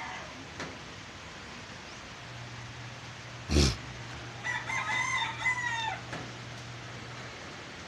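A rooster crowing once, a long call of about a second and a half, over a steady hiss. Just before the crow comes a sharp, loud thump, the loudest sound here.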